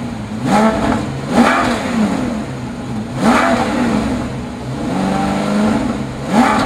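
2007 Maserati Quattroporte's 4.2-litre V8 being revved while the car stands still. There are about four quick throttle blips, each rising and falling in pitch, and one rev held steady for about a second past the middle.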